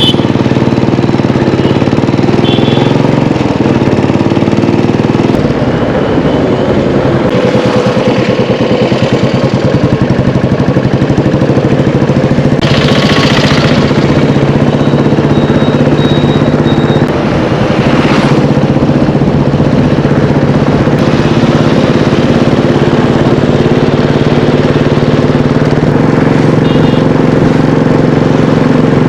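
An engine running steadily with a fast even pulse.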